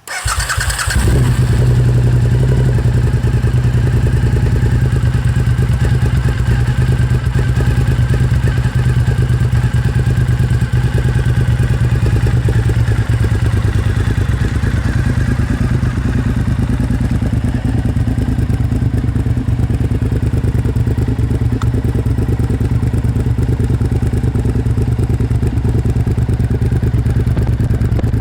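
Suzuki SV1000S 90-degree V-twin with Two Brothers Racing slip-on exhausts, K&N filter and de-snorkeled airbox, starting up and settling within about a second into a steady, deep idle.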